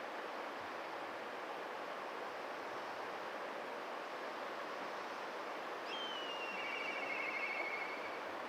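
Black kite giving one call about six seconds in: a high whistle that slides slightly down, then breaks into a lower wavering trill, the kite's typical 'pee-hyoro-ro' call. A steady hiss lies underneath.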